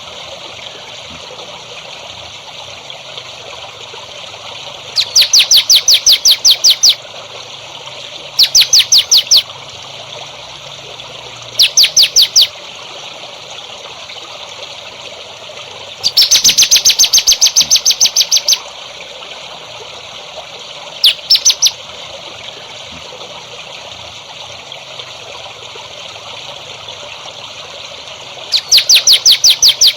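Songbird giving short bursts of rapid, evenly repeated high notes, about a dozen a second, each burst lasting one to two and a half seconds, six times in all, over steady trickling water.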